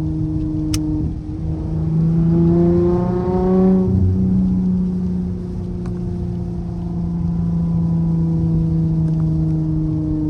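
Straight-piped SXT's exhaust heard from inside the car: the engine note climbs in pitch under acceleration about two to four seconds in, drops suddenly, then settles into a steady cruising drone that slowly falls. A sharp click about a second in.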